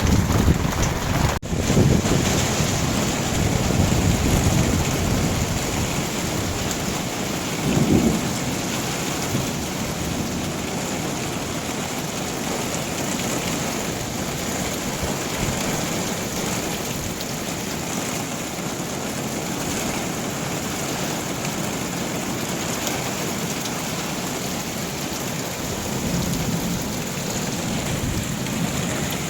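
Heavy rain pouring down steadily, with rolling thunder rumbling through the first few seconds and a short, louder peal of thunder about eight seconds in.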